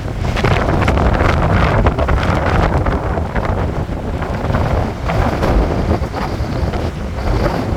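Strong gusting wind buffeting the microphone, a loud rumbling, uneven roar that surges and eases.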